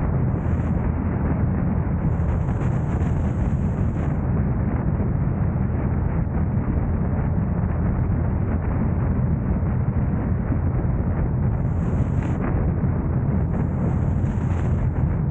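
Steady low rumble of wind and road noise on the camera's microphone while the car drives, with a faint high hiss coming and going a few times.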